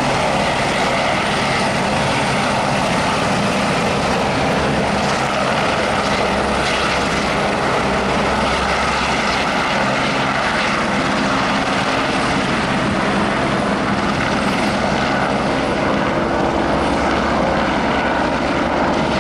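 Helicopter running steadily, a continuous loud rotor and engine noise with a steady hum beneath it.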